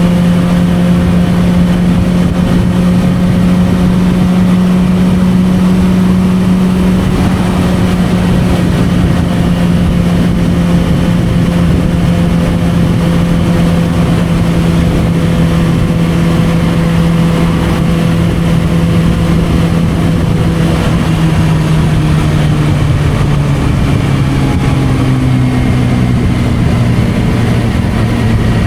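Suzuki GSR600 inline-four with an aftermarket Dominator exhaust, running under way at a steady pitch. Over the last several seconds its note falls in pitch as the bike slows.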